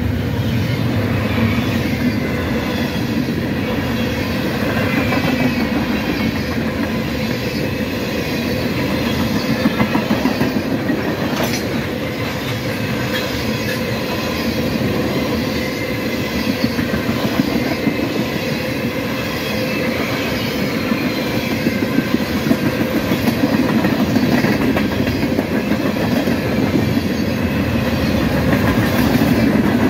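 Freight train cars rolling past close by: a steady rumble of steel wheels on the rails, with groups of sharp clacks as wheel sets cross rail joints.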